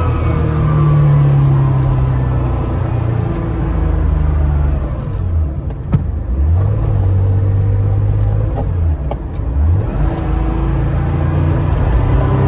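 1970 Porsche 911S's air-cooled flat-six heard from inside the car while driving: the revs fall off through the middle, hold steady, then climb again near the end. A sharp click about six seconds in.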